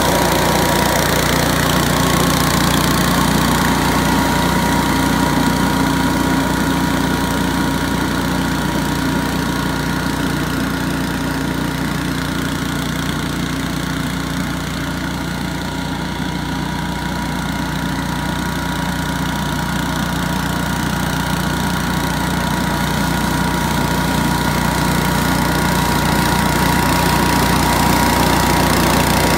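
Billy Goat F601S walk-behind wheeled leaf blower running steadily, its 170 cc Robin single-cylinder petrol engine driving the impeller, with a steady high whine over the engine note. The sound drops a little in the middle as the machine moves away, then grows louder again near the end as it comes back.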